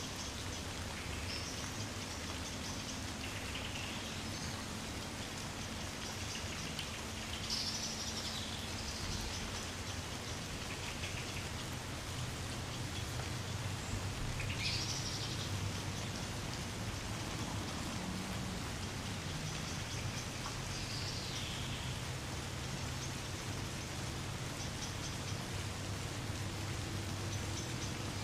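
Gentle rain falling steadily on trees, an even patter. Birds call briefly every few seconds.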